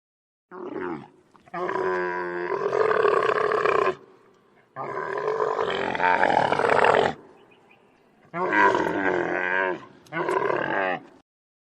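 An animal calling in a run of five loud, harsh calls, two of them long and drawn out, the others shorter.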